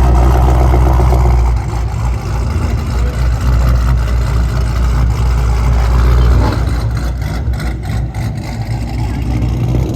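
Loud, low car engine rumble, heaviest in the first second and a half and again around six seconds in.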